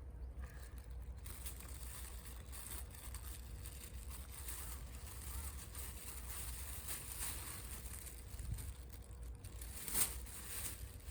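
Wood fire crackling in a small wood gas stove: a dense run of fine, irregular pops and snaps starting about a second in, over a steady low rumble. One louder sharp crack comes near the end.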